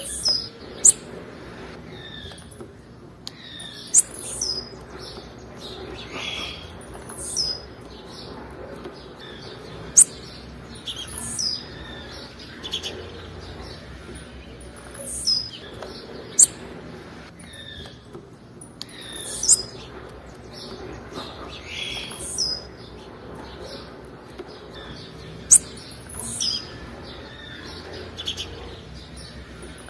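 Blue-black grassquit (tiziu) calling: short, sharp high-pitched notes, each a quick downward sweep, repeated every one to three seconds, sometimes in pairs.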